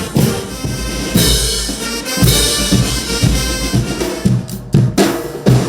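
Music driven by loud drumming: deep drum hits a few times a second, with pitched instruments playing over them.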